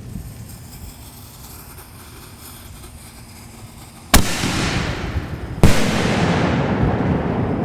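Two sharp, loud bangs from consumer aerial noise shells about a second and a half apart. Each is followed by a long rolling echo that fades slowly.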